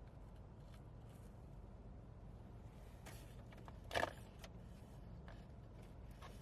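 Quiet car interior with a steady low hum, a few faint clicks and one short crackle about four seconds in, as a cookie and its packaging are handled.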